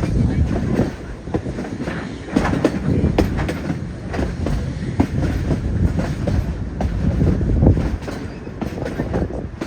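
Narrow-gauge railway car rolling along the track: a steady rumble with irregular clicks and clacks from the wheels on the rails.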